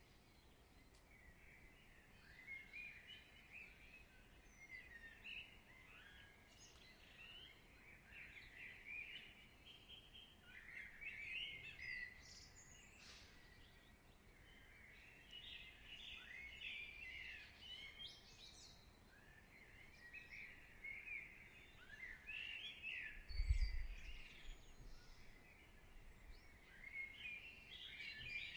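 Faint birdsong ambience: several small birds chirping and twittering in overlapping high calls, with a brief low thump about two-thirds of the way through.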